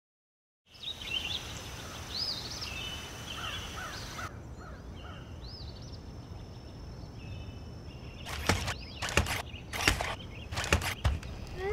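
Birds chirping and singing over a steady outdoor background hiss, starting after a moment of silence. A few sharp clicks come in the last few seconds.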